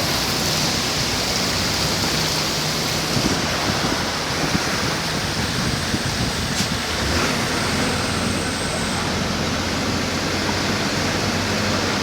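Heavy rain falling in a steady downpour, an even rushing hiss. A single brief click a little past halfway.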